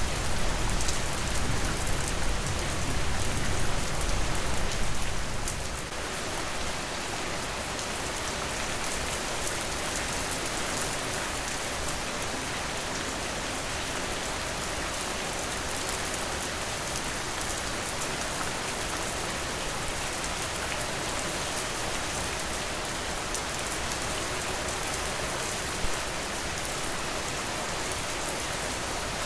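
Steady rain falling, a continuous even hiss. A deeper rumble underneath dies away about six seconds in, and a single sharp tick stands out near the end.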